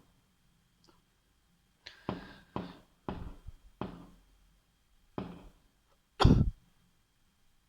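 Fireworks going off at a distance: about seven sharp bangs, each dying away in a short echo. They come in quick succession from about two seconds in, and the loudest lands about six seconds in.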